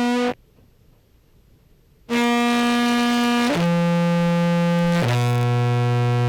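Fuzzed contrabass clarinet playing loud sustained notes through a compressor, which is being set to even out the notes' levels. A note cuts off sharply just after the start and the sound stops for nearly two seconds. Then three held notes step down in pitch, each one buzzy and full of overtones.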